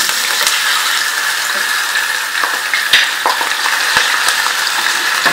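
Raw chicken pieces frying in hot oil in a pot, a steady loud sizzle, with a few light knocks of a wooden spoon stirring them.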